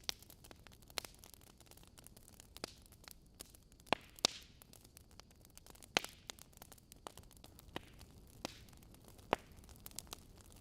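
Wood logs burning in a fireplace: irregular sharp crackles and pops over a soft steady hiss of the flames, with a few louder pops scattered through.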